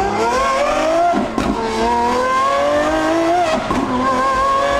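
Gintani-tuned Lamborghini Aventador SVJ's V12 accelerating hard through the gears. The revs climb, drop sharply at an upshift about a second in, climb again, and drop at a second upshift about three and a half seconds in, with a crackle at each shift.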